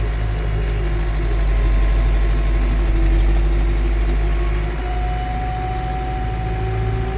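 A farm vehicle's engine running steadily at low speed, with a faint steady whine that comes in about five seconds in.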